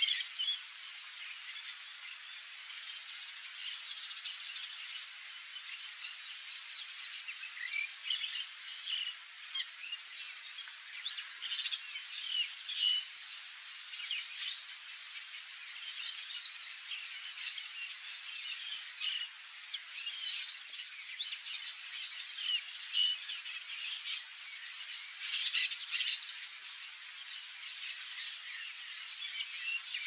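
A chorus of birds calling: many short, overlapping chirps, whistles and squawks, busier a few seconds in and again near the end.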